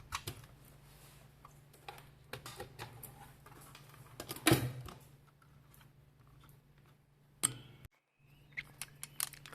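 Scattered small clicks and taps of tools and parts being handled on a repair bench, over a steady low electrical hum, with one louder knock about halfway through.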